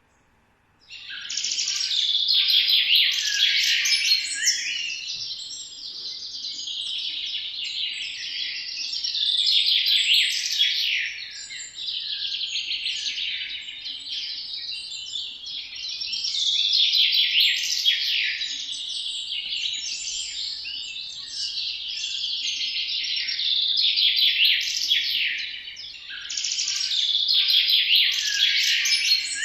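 Parrot chattering and chirping without a break, starting about a second in, swelling louder every few seconds.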